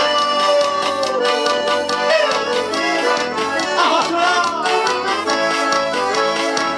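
Live forró music: an accordion plays the melody with held, sliding notes over a steady percussion beat, in an instrumental break between verses of the song.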